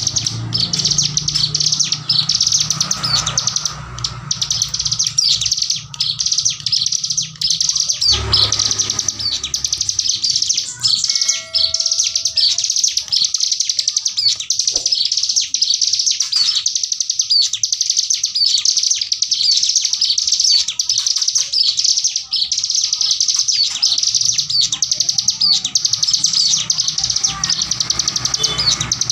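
Ciblek gunung, a prinia, singing a long, unbroken, very rapid high-pitched chattering burst: the 'tembakan bren' machine-gun song. A low hum sits underneath for the first several seconds and again near the end.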